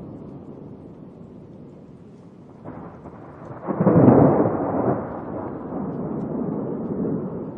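A thunderclap. A low rumble is followed by a sudden crack about two and a half seconds in, which builds to the loudest point around four seconds and then rolls on and slowly dies away.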